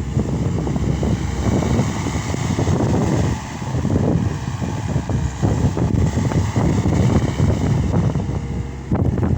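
Case SR200 skid steer loader's diesel engine running, a loud low rumble that rises and falls as it works, dipping briefly a little over three seconds in.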